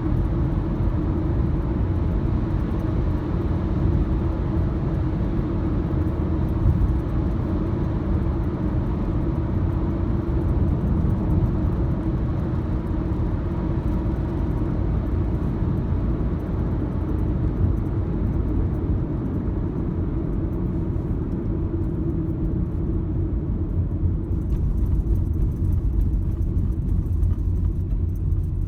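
Car driving on a wet road in the rain: a steady low rumble of tyres and engine, with no sudden events.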